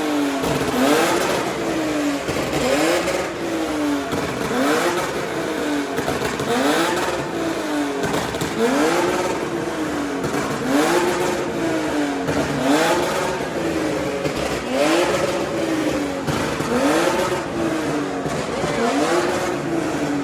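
Car engine revved over and over, the pitch climbing and dropping back about every two seconds, about ten times in a row.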